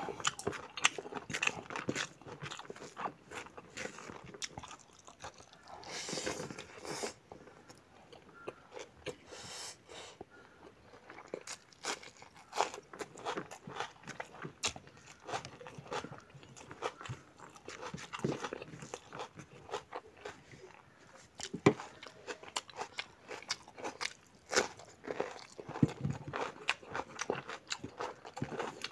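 Close-up chewing and biting of a mouthful of pork curry and rice eaten by hand, a dense run of short, sharp mouth clicks and smacks.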